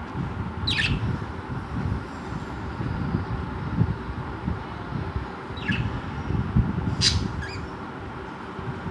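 Budgerigar giving a few short, high chirps that sweep downward, spread apart with gaps of several seconds, over a steady low rumble.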